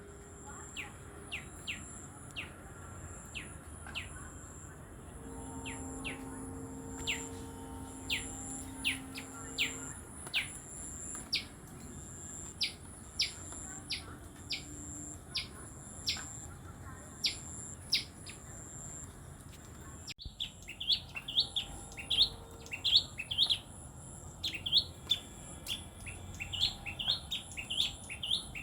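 Tailorbird calling: short, sharp chirps that sweep downward, repeated about once a second. After an abrupt cut about two-thirds of the way through, the chirps come faster, in quick clusters.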